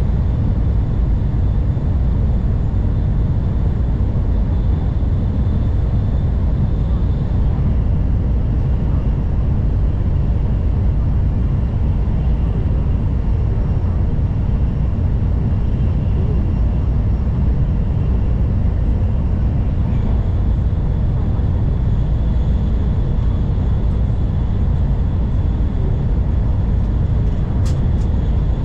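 N700 series Shinkansen running at speed, heard inside the passenger car: a steady low rumble of wheels and rolling stock with a faint high whine, and a brief click near the end.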